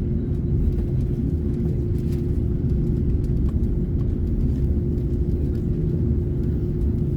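Steady low rumble of an Airbus A330neo's Rolls-Royce Trent 7000 turbofans heard inside the passenger cabin, with a constant hum running through it and a few faint ticks.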